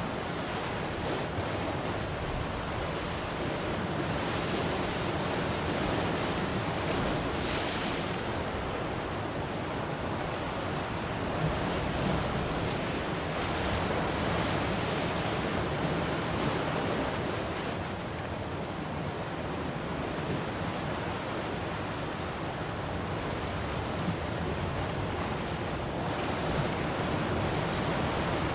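Ocean surf: waves breaking and washing ashore in a continuous rush that swells and eases every few seconds, with some wind on the microphone.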